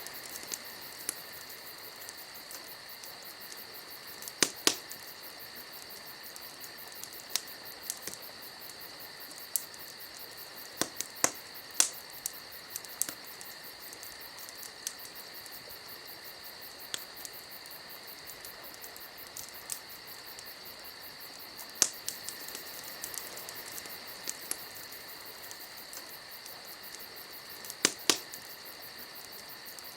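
Wood fire crackling, with irregular sharp pops every few seconds over a steady high-pitched whine.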